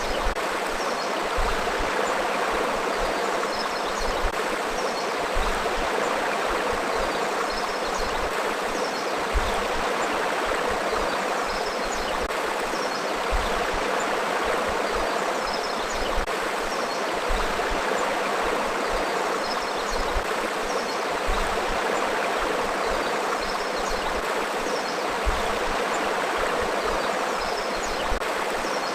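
Forest river flowing steadily: a continuous, even rush of water.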